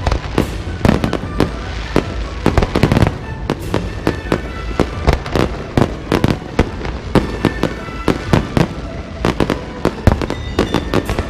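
Fireworks and firecrackers going off in rapid, irregular bangs, several a second, over a low rumble, with music playing underneath.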